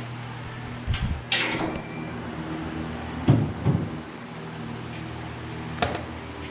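Scattered knocks and clunks of parts and tools being handled, with a short scraping rush about a second and a half in, over a steady low hum.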